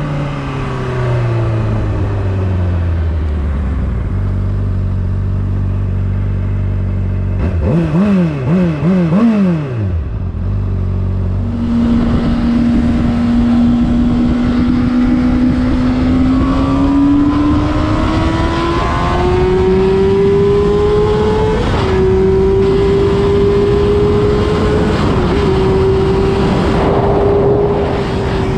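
Honda CBR600RR inline-four engine on the move: revs falling off under deceleration, a low steady stretch, then three quick throttle blips about eight seconds in. After that it pulls in a high, strong note that climbs slowly through the revs and eases off near the end.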